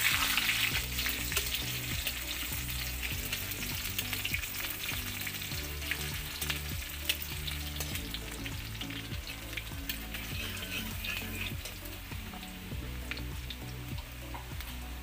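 Sliced onions and a bay leaf frying in hot mustard oil in a steel kadai: a steady crackling sizzle, loudest at the start and easing a little. A steel spatula stirs them near the end.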